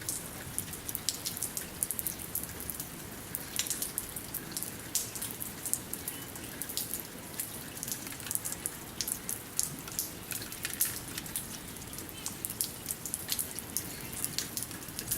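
Light rain with many sharp, irregular water drops striking close by, several a second, over a steady low hiss.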